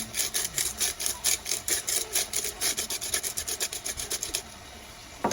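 Fast, rhythmic scraping strokes, about five or six a second, stopping about four and a half seconds in.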